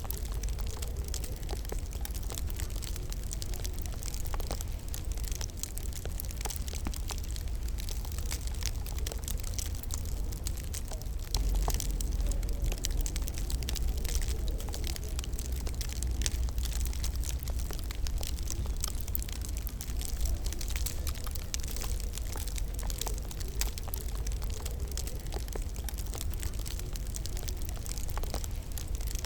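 Wood fire crackling in a fireplace: a steady run of small sharp snaps and pops over a low rumble of burning.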